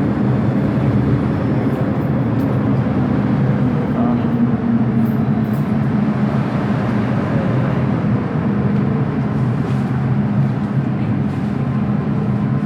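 MTR M-Train electric multiple unit running on the Island Line: a steady low drone of running noise with several humming tones, unbroken throughout.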